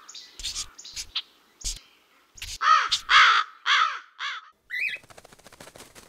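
A bird calling: after a few faint clicks, four loud calls about half a second apart, each rising and then falling in pitch, then a short rising call. Near the end comes a fast run of clicks, like a rattle.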